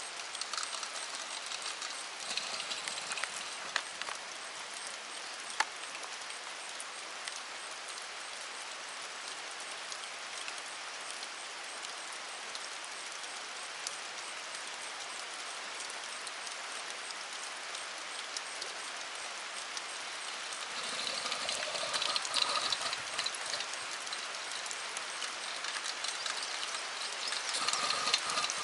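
Steady rain falling, an even hiss with a few sharp drop ticks, growing a little louder about twenty-one seconds in and again near the end.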